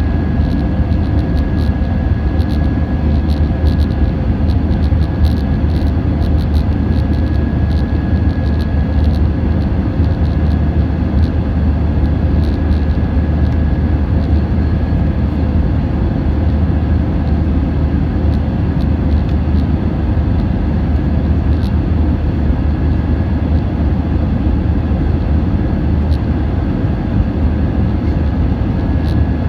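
Airbus A320-232's IAE V2500 jet engines running steadily, a deep, even drone with a faint high whine held on one pitch.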